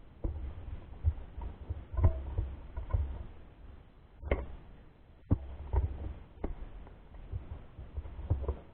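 Irregular knocks and low rumbling thumps, typical of a mountain bike and its mounted camera jolting over a rough dirt trail.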